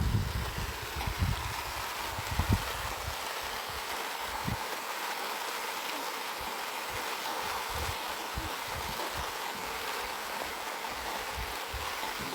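Steady hiss of rain, with irregular low thumps of wind buffeting the microphone, heaviest in the first few seconds.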